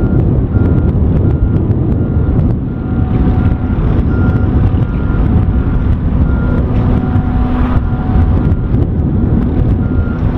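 Wind buffeting the microphone in a loud low rumble, over a boatyard travel lift's warning beeper sounding steadily about twice a second. A faint steady engine tone rises in the middle.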